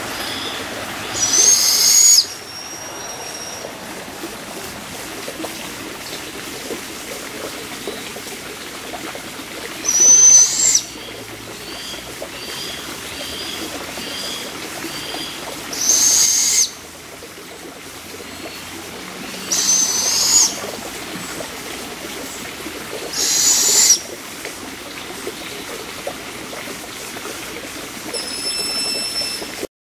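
Young birds of prey giving loud, hissing screech calls, each about a second long, five times, typical begging calls of fledglings at feeding time. Fainter short chirps repeat between them.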